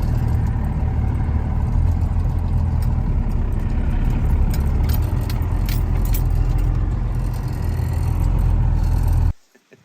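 Vehicle engine running steadily while driving in, with light rattling and clicking in the middle; the sound cuts off abruptly near the end.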